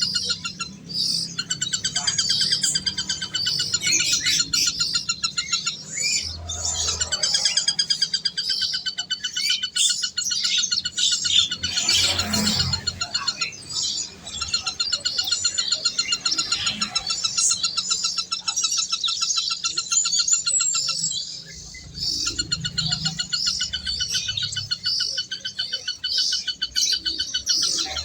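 Birds chirping and twittering, many rapid trilled calls overlapping without a break.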